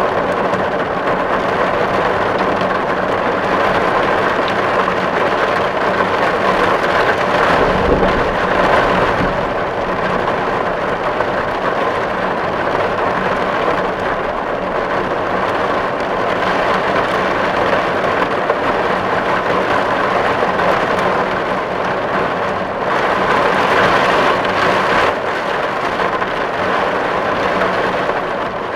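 Steady, dense rain drumming on a tin roof, with a brief low thump about eight seconds in.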